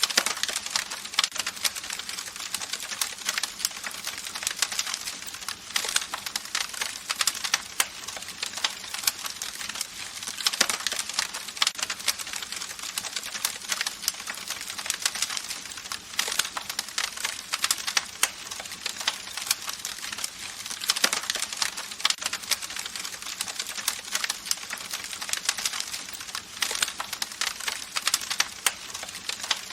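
Wood fire crackling: a dense, irregular stream of small pops and snaps over a steady hiss of burning, with a few louder pops scattered through.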